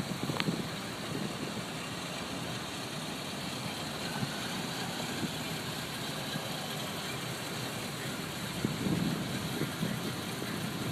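Car engine idling steadily, with a short click just under half a second in.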